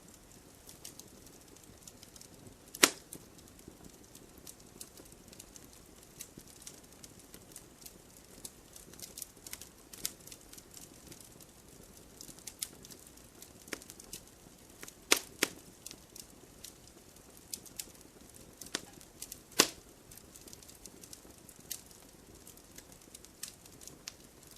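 Burning firewood crackling: irregular small crackles over a faint hiss, with a few loud sharp pops, one about three seconds in, a close pair about fifteen seconds in and another about four seconds later.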